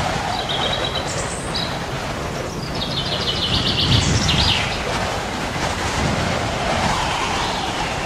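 High bird chirps and a fast trill of repeated notes about three seconds in, over a steady loud rushing noise.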